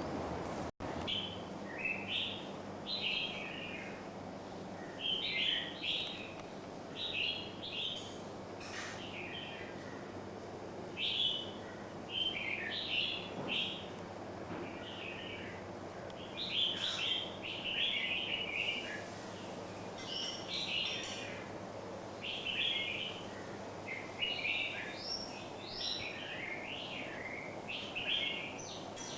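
Small birds chirping in short, quick phrases, repeated about once a second over a faint steady hum. The sound cuts out for an instant about a second in.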